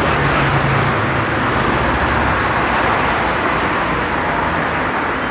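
Steady road traffic noise, with a vehicle engine's low hum fading out over the first two seconds.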